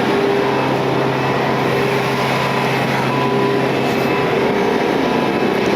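Steady drone of aircraft ground machinery on an airport ramp: a constant loud hum with a few steady tones that does not change.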